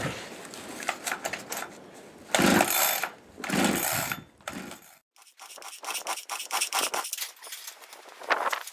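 Chainsaw being pull-started: two hard pulls of the starter cord crank the engine over without it catching, followed by quieter clicking and handling of the saw. The saw is hard to start in the cold, which the owner puts down to its aftermarket carburetor and ignition.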